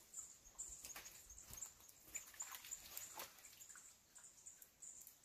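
Quiet marsh ambience with a small bird's faint, high-pitched short chirps repeating irregularly, and a few soft clicks and knocks.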